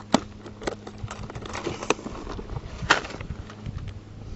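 Scattered light clicks and rustles from handling a chatterbait lure and its soft-plastic trailer, over a faint steady low hum.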